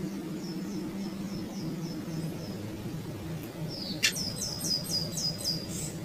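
Bird chirping in quick runs of short, high, falling notes: faint at first, then louder after a sharp click about four seconds in, at about five chirps a second. A low steady hum runs underneath.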